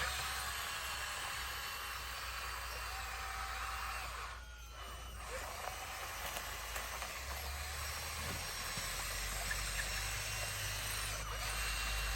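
Bulldozer's diesel engine running as a low drone under a steady hiss, changing pitch about seven seconds in and again near ten seconds as the load varies. Faint wavering whistles sound above it.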